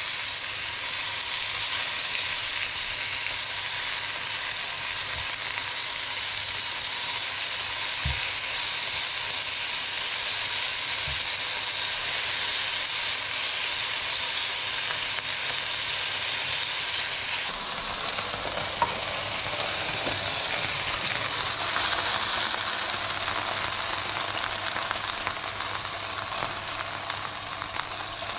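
Chicken strips sizzling in oil in a non-stick frying pan, a steady frying hiss. About two-thirds of the way in it drops a step, and it fades toward the end.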